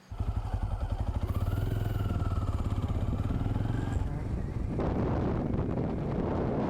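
Benelli Imperiale 400's single-cylinder engine running with an even, rapid pulse, starting abruptly. From about five seconds in, a wind rush rises over it as the bike gets under way.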